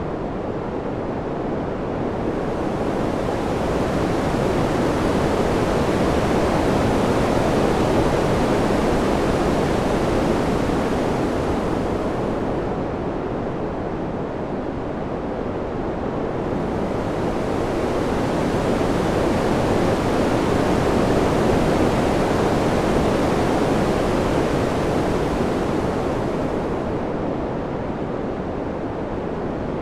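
Wind noise: a steady rushing hiss that swells and eases in slow waves about every thirteen seconds, with the high hiss thinning out at each low point.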